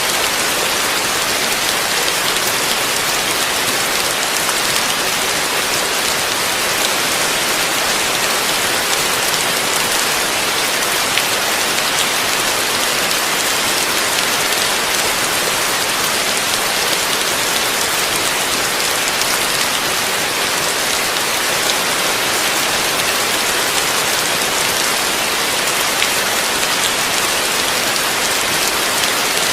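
Heavy rain falling steadily on a surface, a dense even hiss with many fine drop ticks and no let-up.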